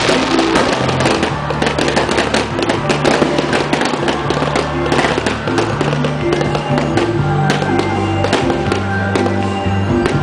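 Close-range fireworks bursting and crackling in rapid, continuous succession, with music playing underneath in steady low held notes.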